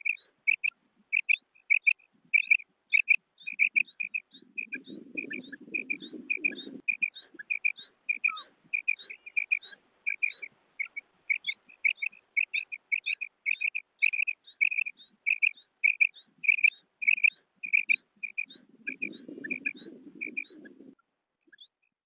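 Female quail calling: a steady run of short, high, clipped notes, about two or three a second, stopping near the end. A low rumbling noise rises under the calls twice.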